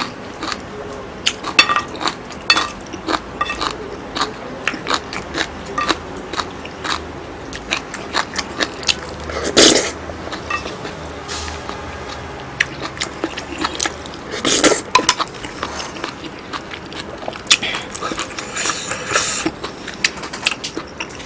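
Close-miked eating of abalone curry rice: wet chewing, lip smacks and many small sharp mouth clicks, with two louder noisy bursts about ten and fifteen seconds in.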